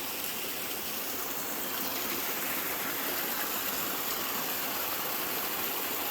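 Steady, even rush of water, with no rises, breaks or single events.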